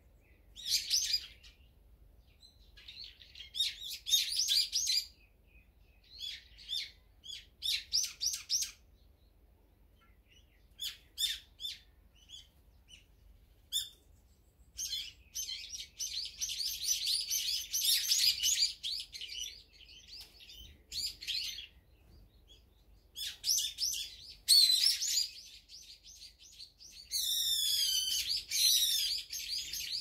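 Small songbirds chirping and twittering in short, irregular bursts, busiest in the second half, with a run of quick repeated falling notes near the end.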